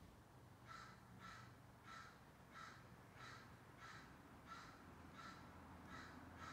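A bird calling over and over, faintly: a steady series of short calls, about one and a half a second, starting just under a second in.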